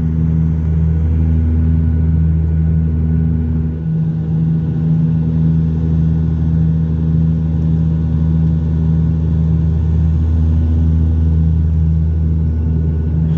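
Cabin drone of an ATR 42-300's twin turboprop engines and propellers, heard from inside the passenger cabin: a loud, steady low hum with several fixed pitches layered together that barely change.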